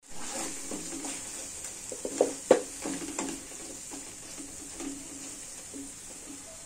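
Thick tomato mixture sizzling in a wok while a wooden spatula stirs and scrapes through it. Two sharper knocks of the spatula against the pan come about two and two and a half seconds in.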